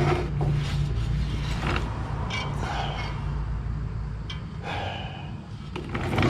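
Hand tools working a stubborn bolt on a truck body: scattered metal clicks, creaks and scraping, over a steady low hum.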